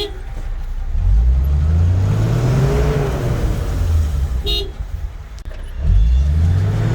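Off-road vehicle's engine revving hard, its pitch rising twice, about a second in and again near the end, as it strains to pull free while stuck. A brief horn-like toot sounds about four and a half seconds in.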